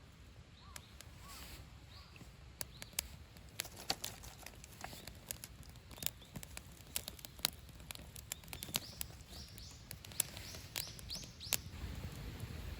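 Campfire crackling, with sharp irregular pops and snaps over a low steady rumble of the burning fire. Short high chirps come in near the start and again near the end.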